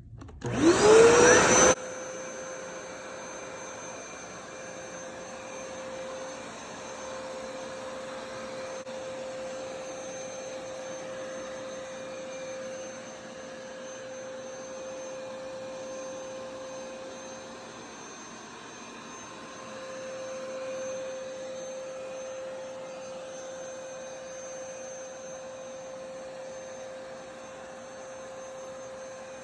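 Hoover SmartWash+ carpet shampooer switched on, its suction motor whining up to speed within about a second and loudest at that start, then running steadily with a constant hum.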